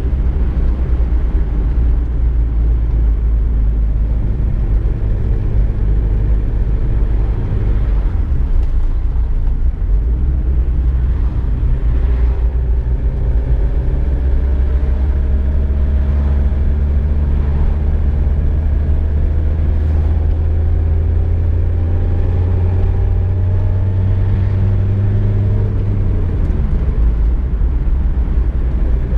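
Volkswagen Golf II driving, heard from inside the cabin: a steady, loud, low rumble of engine and road. The engine note drops about eight seconds in, rises slowly through the middle, and drops again near the end.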